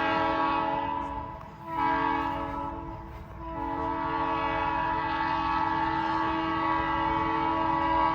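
Locomotive air horn blowing a chord of several notes: a blast that fades about a second and a half in, a short blast, then a long held blast that tails off near the end. It is an unusual horn from a collection, fitted to the locomotive in place of its usual horn.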